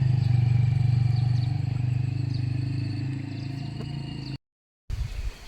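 A motor engine running with a steady low hum that slowly fades, then cuts off abruptly about four seconds in.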